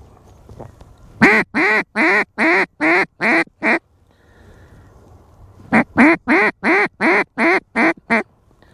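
Loud mallard-hen quacking in two runs, about seven quacks and then about eight, two to three quacks a second, with a short pause between the runs.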